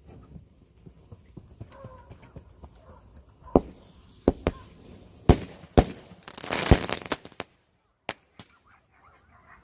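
Three mortar fireworks taped together going off on the ground. A low crackle is followed by a string of sharp bangs starting about three and a half seconds in. The loudest bang comes inside a second-long burst of crackling hiss just under seven seconds in, and a couple of last pops follow it.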